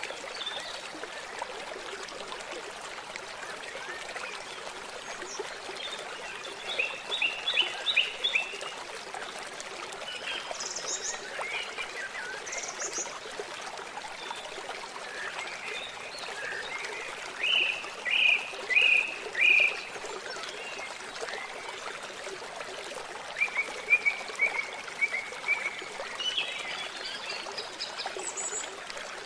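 Water trickling steadily, with three short series of loud, quick chirping calls about a quarter, two-thirds and four-fifths of the way through.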